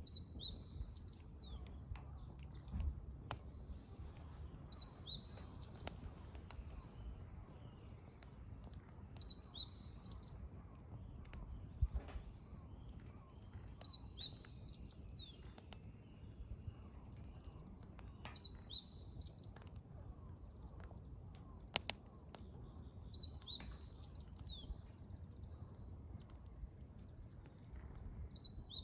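A songbird repeating the same short, high song phrase about every four and a half seconds, seven times in all. Under it, firewood burning in a campfire gives off scattered crackles and pops, two of them sharper near the middle, over a low steady rumble.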